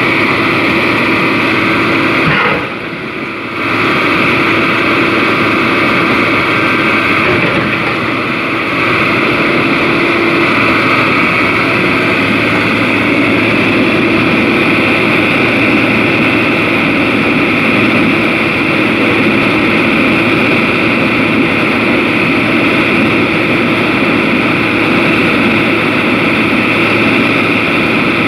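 Excavator's diesel engine running steadily with a constant drone, dipping briefly about three seconds in.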